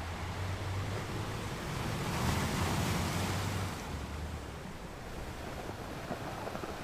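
Ocean surf: a wave breaks and washes in, swelling about two seconds in and dying away after about four seconds, over a steady low rumble of the sea.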